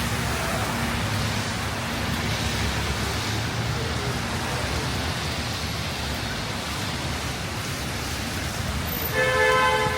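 Steady hiss of heavy rain with road traffic rumbling underneath, and a single short vehicle horn toot near the end.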